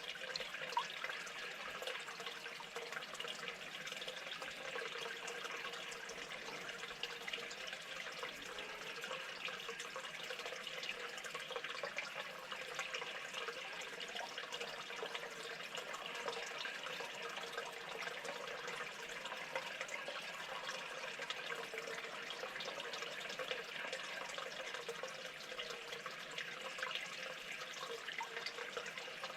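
Steady running, trickling water, with a faint steady hum underneath.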